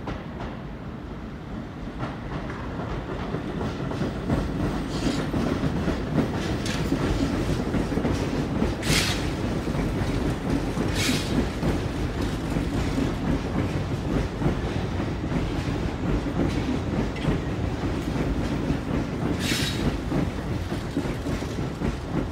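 Tobu Urban Park Line electric commuter train running past on the track, wheels clicking over the rail joints with a steady rumble that swells about two seconds in. Three brief high-pitched screeches cut through it partway and near the end.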